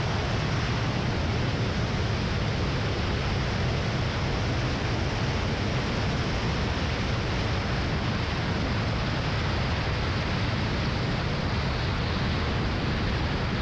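Steady engine and airflow noise inside the cockpit of a North American T-28 Trojan on short final and landing, an even drone with a low rumble that holds at one level throughout.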